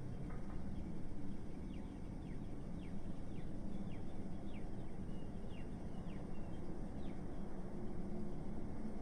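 Steady low rumble of city traffic, with a small bird chirping a string of short, falling notes from about two seconds in until about seven seconds in.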